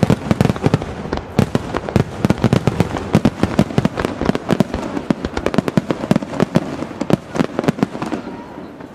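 Fireworks bursting over a lake in a dense barrage: many sharp bangs in quick succession, several a second, with the explosions resounding off the surrounding mountains. The barrage thins a little near the end.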